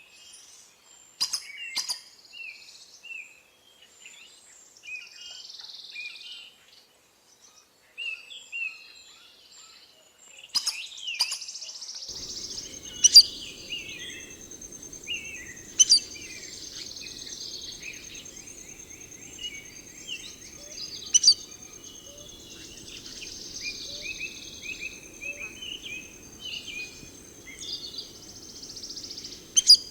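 Wild birds chirping and calling in short repeated notes, with several sharp clicks scattered through. A steady high-pitched tone sets in about a third of the way in, along with a low rumble.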